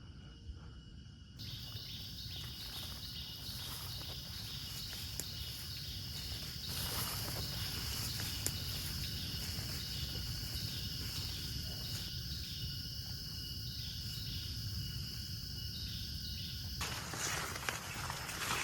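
Insects chirring in a steady high-pitched chorus with a fast pulsing pattern, starting about a second in and cutting off suddenly near the end, over a continuous low rumbling noise.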